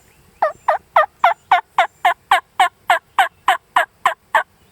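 A loud, even run of about fifteen turkey yelps, roughly four a second, each note dropping in pitch.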